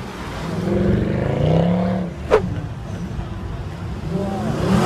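Mercedes-Benz C63 AMG V8 revving hard as it is driven round a roundabout. The engine note climbs and drops, then climbs again near the end. A single sharp crack cuts through about two seconds in.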